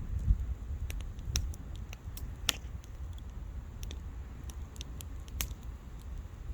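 Wood bonfire crackling, with sharp pops at irregular intervals over a steady low rumble.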